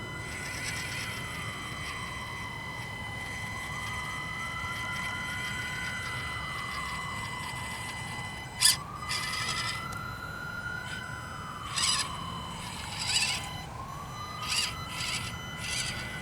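A distant siren wailing, its pitch rising and falling slowly about every four seconds. Over it runs a steady high whine, and from about halfway through come several short bursts of the Axial SCX24 micro crawler's electric motor and gears as it climbs the rock.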